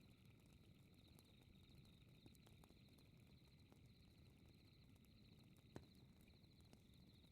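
Faint fireplace crackle, scattered small pops over a low rumble, with one sharper pop about six seconds in. Behind it, night insects keep up a steady high pulsing chirp.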